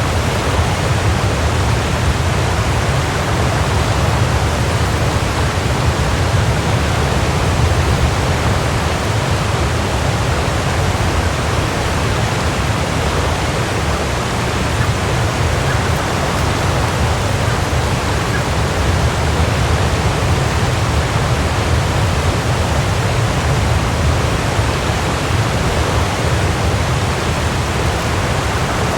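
Waterfall: water falling and splashing in a steady, unbroken rush, heaviest in the low rumble.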